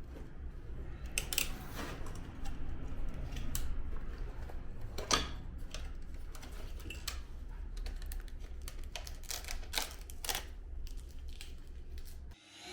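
Scattered light clicks and taps of hands handling and fitting the plastic parts of a wall-mounted air-conditioner indoor unit during reassembly, over a low steady hum.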